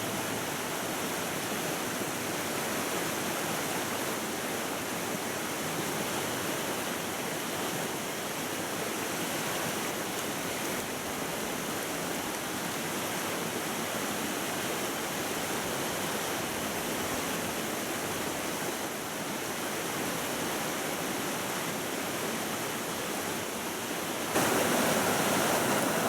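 Mountain stream water rushing steadily over rocks, jumping suddenly louder near the end.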